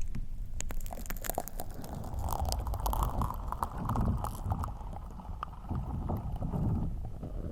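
Slime squished and worked directly on a microphone: muffled, sticky squelching that swells and fades, with small sharp pops and clicks.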